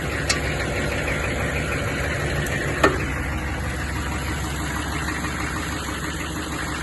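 Chevrolet 6.5-litre turbo-diesel V8 idling steadily with a diesel knock. Two sharp clicks break through, one just after the start and one about three seconds in.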